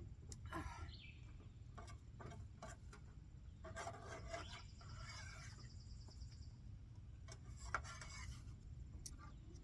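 Cutlery scraping and clicking on a plate while eating, in short irregular bouts of scrapes and taps.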